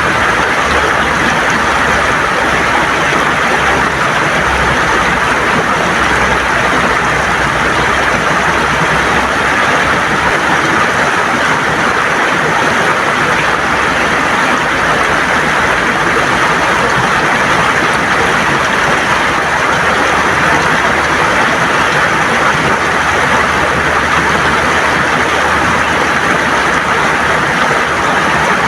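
River water gurgling over stones in a steady, even rush.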